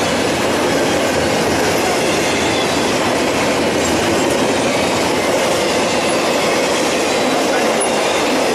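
Intermodal freight train's double-stack container cars and trailer cars rolling past: a steady rumble and clatter of steel wheels on rail.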